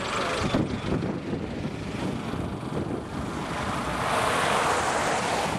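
Wind rushing over the microphone, steady at first, then swelling into a louder gust over the last second and a half.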